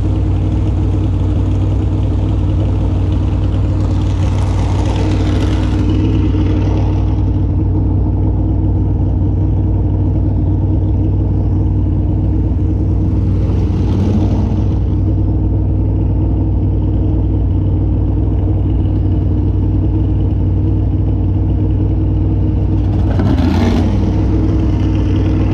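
Dirt-track race car engines running hard at speed, a steady loud drone with a louder rush of engine noise about every nine to ten seconds as cars come around.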